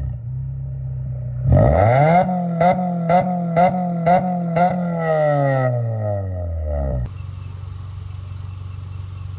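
Exhaust of a 2006 Acura RSX base model's four-cylinder engine through a twin loop muffler. It idles, then is revved up sharply and held, with about five quick throttle stabs roughly twice a second. The revs then fall away and settle back to idle.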